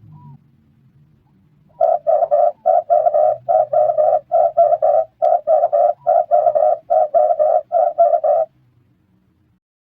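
Red turtle dove cooing: a fast run of short, low coos, about three or four a second. It starts about two seconds in and stops well before the end, over a faint low hum.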